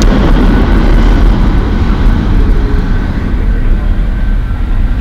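New York City subway train running through the station with a loud low rumble and steady noise, its higher hiss fading away in the last couple of seconds.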